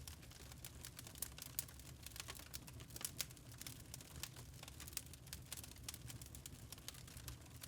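Wood fire crackling in a fireplace: many irregular small snaps and pops over a faint low rumble.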